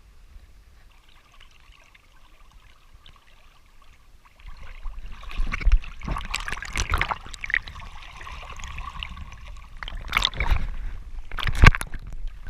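Water splashing and trickling, with irregular knocks, starting about four seconds in after a quiet stretch.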